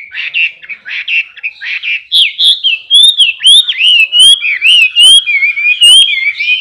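Male Chinese hwamei singing: a run of rapid chattering notes, then from about two seconds in a loud series of clear, slurred whistles gliding up and down, with sharp high notes mixed in.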